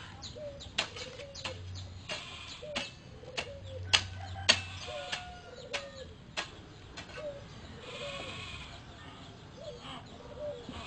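Farmyard animals calling: a run of short, soft calls about one and a half a second, with sharp clicks scattered among them.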